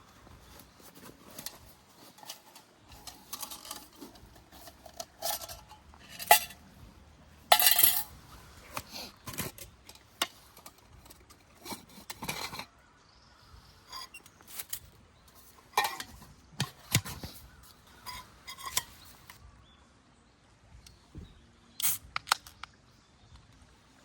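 Irregular clinks, knocks and clatter of small hard metal objects being handled and set down, the loudest a few sharp ringing clinks about six to eight seconds in.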